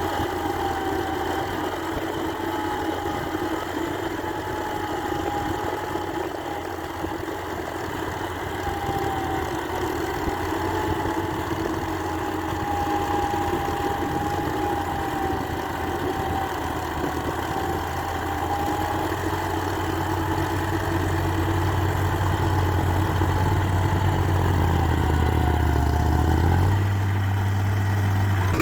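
New Holland 3630 tractor's diesel engine running steadily. Its low note rises a step near the end.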